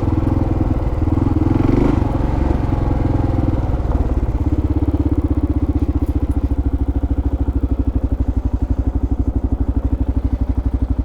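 Kawasaki KLR650's single-cylinder four-stroke engine running, then settling about four seconds in to an even, rapid idle pulse.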